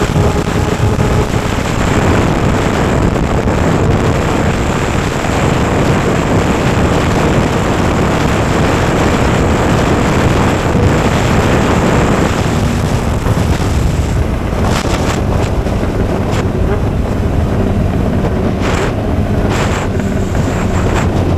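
Straight-piped Suzuki GSX750F inline-four engine running while riding, mixed with heavy wind noise on the microphone. The wind rush covers most of the middle, with the engine's tone clearer near the start and again near the end.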